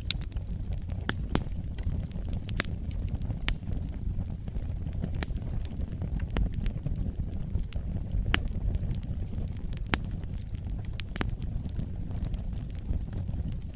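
Campfire burning: scattered sharp crackles and pops from the burning wood, irregular and a few a second, over a steady low rumble.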